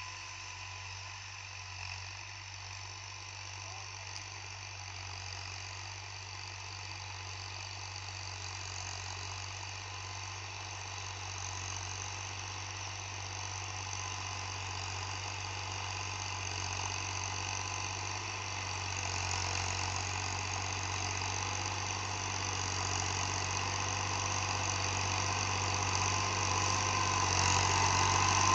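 Fiat 480 tractor's diesel engine running steadily, growing gradually louder throughout.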